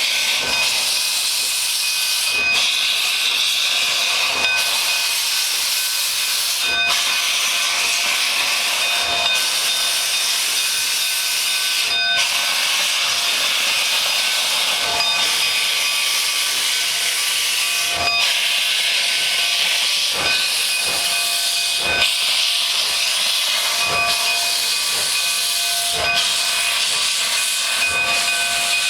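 Steam locomotive venting steam: a loud, steady hiss with faint tones coming and going and sharp knocks every couple of seconds.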